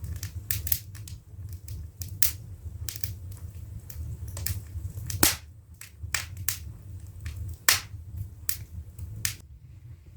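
Wood fire crackling in an open fireplace: irregular sharp snaps and pops, loudest about five and a quarter and seven and a half seconds in, over a low steady rumble.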